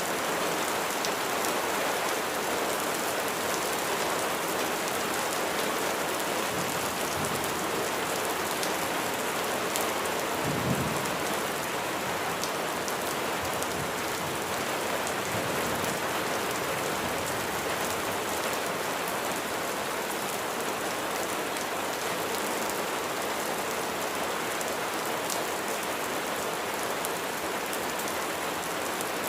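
Steady heavy rain falling on a surface, a dense even hiss with fine crackling drops. About ten seconds in, a brief low rumble of thunder.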